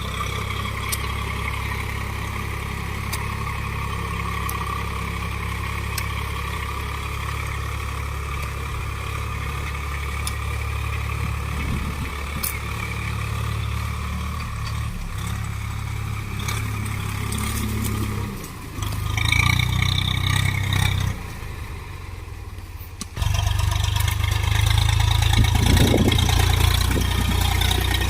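Diesel tractor engine running, its note changing several times: a dip a little past halfway, a louder spell, a short quieter stretch, then louder and steady for the last few seconds.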